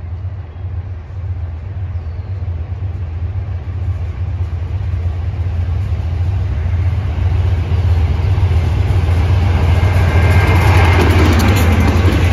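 Pan Am Railways freight train's diesel locomotives approaching, a deep engine drone that grows steadily louder, with wheel and rail noise building over the last few seconds as the lead units pass close by.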